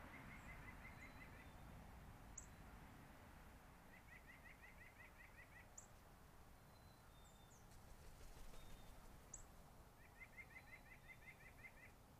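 Faint rapid trill of about eight short notes from a small bird, given three times with pauses between, plus a few very short high chips.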